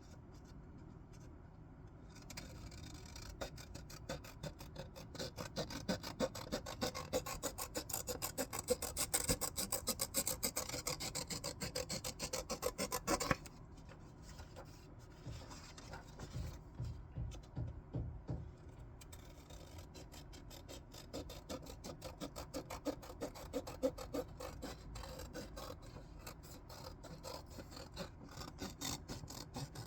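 Scissors cutting through paper with close, rasping snips. A dense run of cutting starts about two seconds in and stops suddenly near the middle. After a short lull a softer run of cutting follows.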